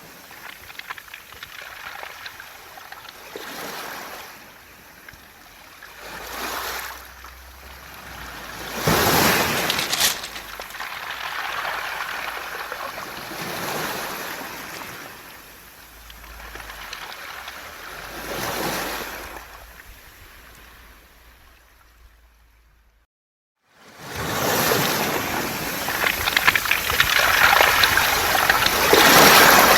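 Waves washing up a beach of smooth round pebbles and drawing back, the stones rattling in the wash, swell after swell every few seconds. A second of silence comes about three quarters of the way in, then a louder, more continuous stretch of surf over the pebbles.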